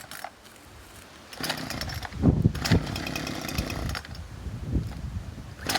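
Chainsaw running low at first, then revving up about a second and a half in and cutting through mesquite wood, its engine speed rising and dipping several times under load.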